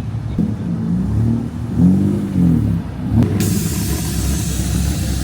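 Volkswagen Mk6 GTI's turbocharged four-cylinder engine revving, its pitch rising and falling several times in quick succession. A steady rushing hiss sets in about three seconds in.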